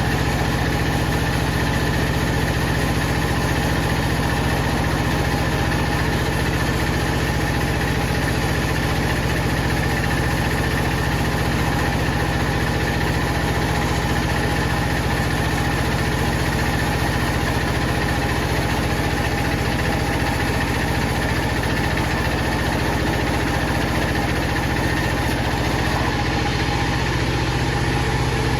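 Powered wood saw running steadily, a constant machine hum with fixed tones and no audible change in load.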